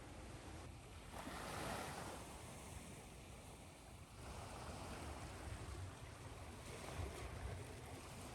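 Ocean surf: waves washing in and breaking as an even hiss that swells about a second in, eases around four seconds, then builds again, over a steady low rumble.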